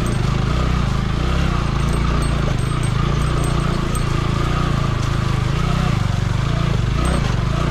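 Motorcycle engine running steadily while riding a rough dirt track, with road and wind noise over the microphone.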